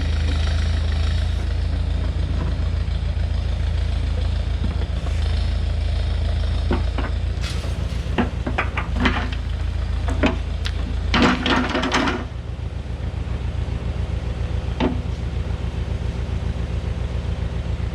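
Tractor engine running steadily, with a cluster of sharp metal clanks and knocks in the middle and one more a few seconds later. About twelve seconds in, the engine drops to a lower speed.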